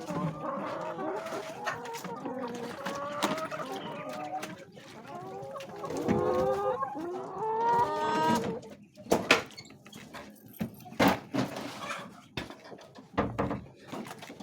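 Hens clucking, with a rooster crowing once in a long call about six seconds in, followed by a few sharp knocks.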